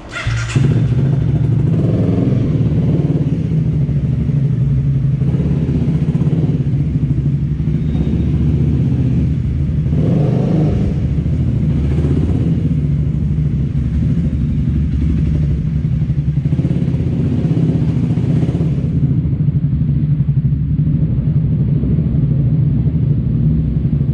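Motor scooter running while riding in city traffic: a steady low engine drone with a noisy haze that swells every few seconds.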